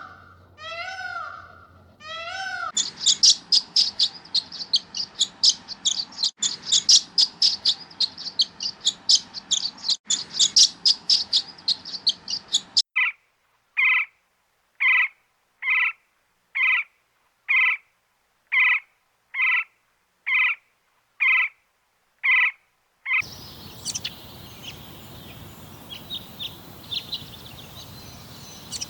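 A kitten meows a few times at the start. Then comes a long stretch of birds chirping rapidly and high-pitched, followed by a short bird call repeated about once a second. Near the end, faint chirps sound over a steady outdoor hiss.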